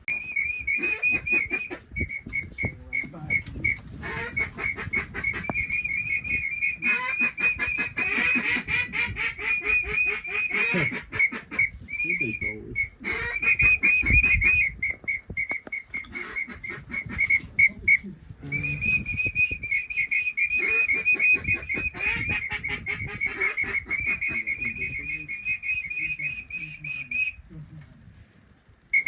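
A duck whistle call blown in long runs of rapid, trilling high notes on one steady pitch, with short breaks between the runs: whistling to bring teal and pintails in.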